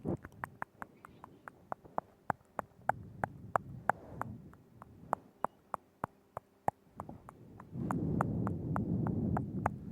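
Close-miked ASMR mouth sounds: a run of wet tongue and lip clicks, about three to four a second. A soft low rushing noise lies under the clicks for the last two seconds.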